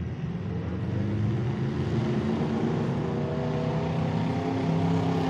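Modified demolition derby cars' engines running under load, with the pitch climbing as they rev from about halfway through.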